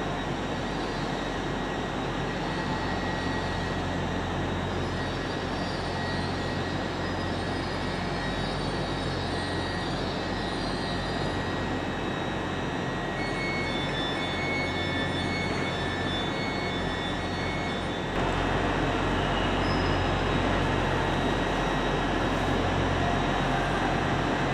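LNER Azuma electric multiple-unit train running along a station platform: a steady rumble with a low hum and faint high-pitched whines. About 18 seconds in the sound steps up abruptly to a louder, similar rumble.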